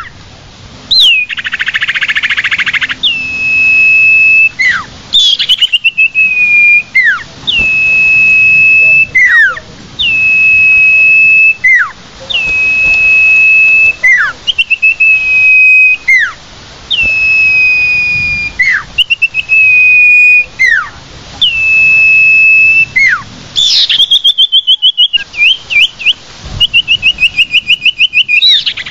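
Common iora (cipoh, sirtu) call played as a bird-trapping lure: a series of long whistled notes, each opening with a quick downward flick and then held steady, repeated about every two seconds. A harsh buzzy call comes about a second in, and rapid chattering trills come near the end.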